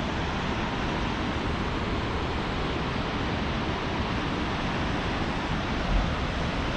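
A fast, turbulent mountain river rushing steadily, an even, continuous noise of water.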